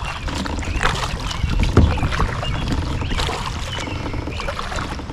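Kayak paddling on a lake: paddle strokes splashing in the water, roughly one a second, over a steady low rumble.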